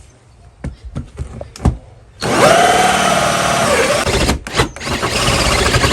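Cordless drill boring into the house wall's siding, starting about two seconds in after a few light knocks. Its motor pitch sags under load and recovers. It stops briefly, then runs on.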